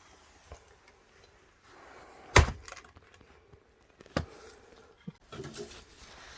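Axe splitting firewood: a sharp, loud crack of the blade into a log about two and a half seconds in, and a second strike almost two seconds later, with lighter knocks of wood around them.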